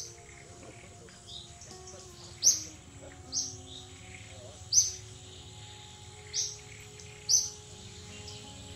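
A bird giving short, sharp, high-pitched chirps, about five of them spaced one to one and a half seconds apart, over faint background music.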